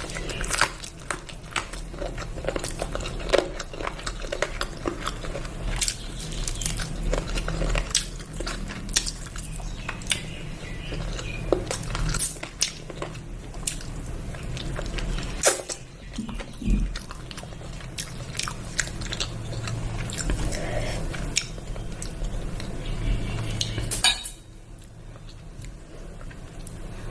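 Close-miked eating sounds: a person chewing and biting food, with frequent sharp mouth clicks and smacks. The chewing stops suddenly about three seconds before the end, leaving a quieter low hum.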